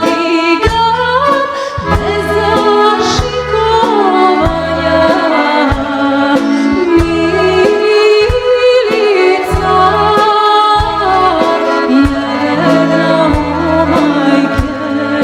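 A woman singing a Serbian folk song with instrumental accompaniment, her voice carrying the melody over a steady, regular bass beat.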